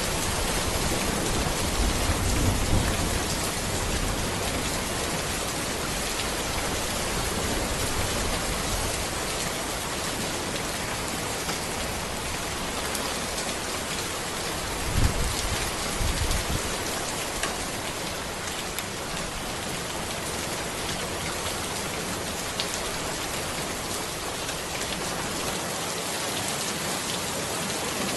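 Steady rain pattering on a road and the surrounding trees. A low rumble rises under it about two seconds in, and again, opening with a sharp thud, around halfway through.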